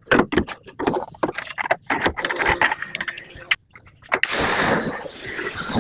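Knocks and clatter of parts being handled, then about four seconds in a loud spray hiss starts suddenly and settles into a steady spray.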